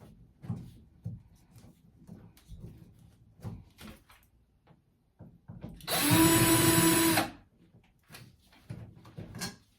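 Power drill running in one burst of a little over a second, spinning up and winding down, among faint handling clicks and knocks.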